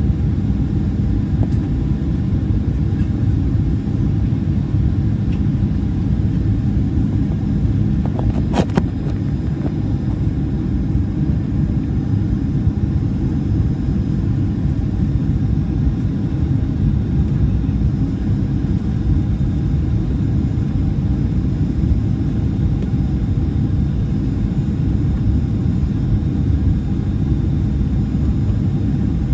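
Steady low rumble of jet engine and airflow noise inside the cabin of a Boeing 737-400 airliner, with one brief knock about eight and a half seconds in.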